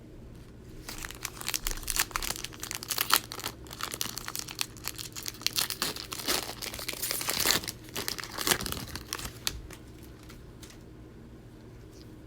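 A trading-card pack's plastic wrapper being torn open and crinkled by hand: a run of crackling and tearing for several seconds that dies away near the end.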